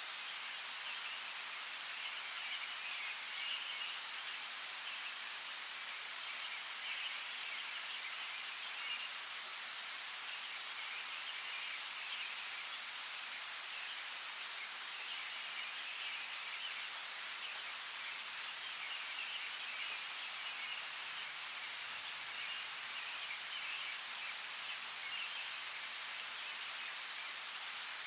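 Steady rain falling, with a few sharper, louder drop hits scattered through it. Beneath it runs a continuous high chirping chorus that swells and fades.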